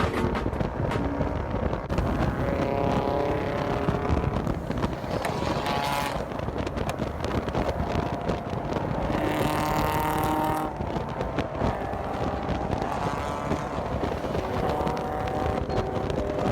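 Car engines revving and running, the pitch rising and falling, with a louder, harsher stretch of revving about nine seconds in.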